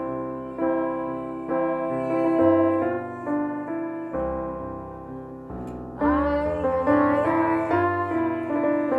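Electric keyboard playing a slow nigun melody over sustained chords. From about six seconds in, a wavering voice joins it without words and the music grows louder.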